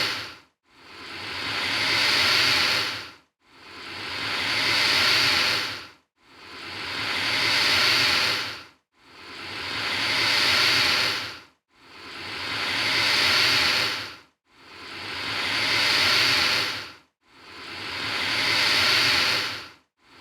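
Alligator hissing, the same hiss repeating about every three seconds: each one swells up and then stops abruptly.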